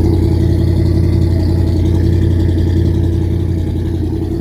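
Squarebody Suburban's engine running steadily, just fired up for the first time in years and running a little rough on the stale gas left in it.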